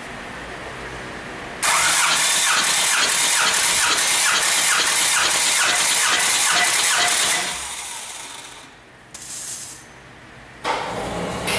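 Starter motor cranking a Hyundai/Kia D4CB 2.5-litre four-cylinder diesel engine for a compression test, with an even, rhythmic chug of the cylinders coming up on compression. It runs for about six seconds and winds down; a short burst of cranking follows, and cranking starts again near the end.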